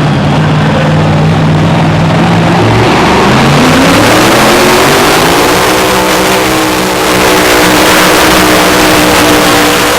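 Mini Unlimited class pulling tractor's engine running very loud. About three seconds in it climbs steeply in pitch, then holds high at full throttle for the rest of the pull.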